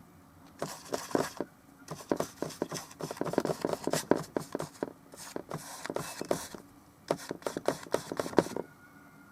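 Paintbrush working oil paint on a small canvas: quick dabbing and scrubbing strokes, in about four bursts of rapid taps and scrapes with short pauses between.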